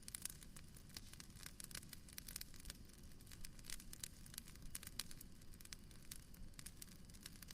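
Faint wood fire crackling in a fireplace: many small irregular pops and snaps, several a second, over a soft low rumble.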